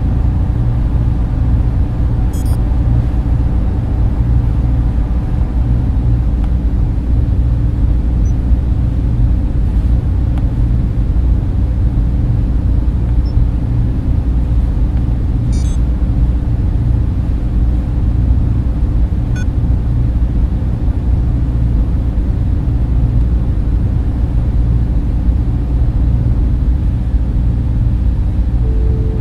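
Data-center ambience: the deep, steady rush and hum of server cooling fans and air handling, with a few faint ticks.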